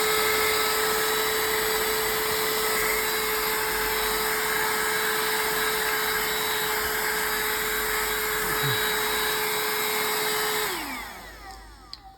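Small rechargeable handheld car vacuum cleaner running at a steady whine, then switched off about eleven seconds in, its motor winding down with a falling pitch.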